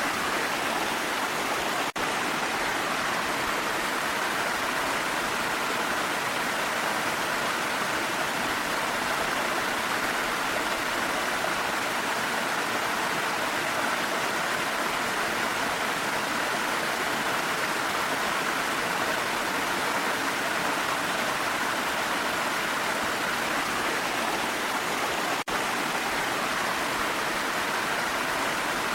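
Waterfall rushing: a steady, even roar of falling water, broken by two split-second dropouts, one near the start and one near the end.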